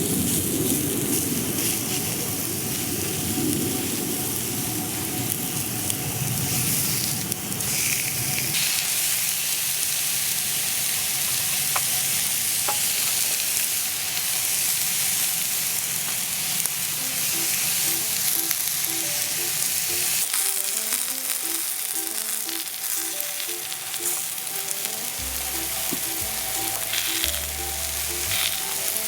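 Food frying in a hot pan with a steady sizzle, a low rumble under it for the first eight seconds or so. Soft background music with a simple melody comes in about two-thirds of the way through.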